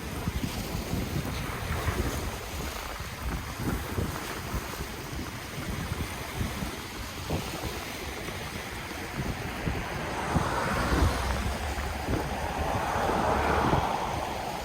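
Ocean waves washing ashore, with wind buffeting the microphone in a low fluttering rumble. A wave surges in louder from about ten seconds in and falls away near the end.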